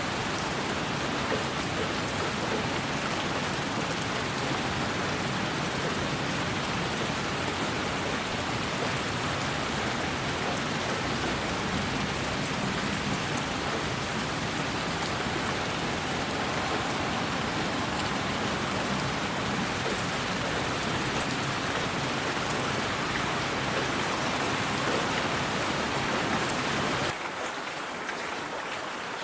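Steady rain, an even hiss with faint scattered drop ticks. About 27 s in it turns quieter and thinner as its low rumble drops away.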